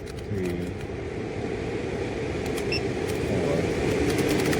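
12 V RV roof vent fan running in intake mode, its motor and airflow rising steadily in loudness as it spins up to its highest of four speeds.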